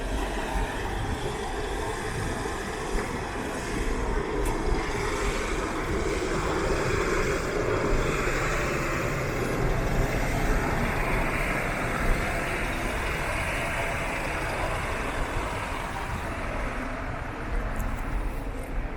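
A motor vehicle running, with engine rumble and road noise that swells in the middle and eases near the end.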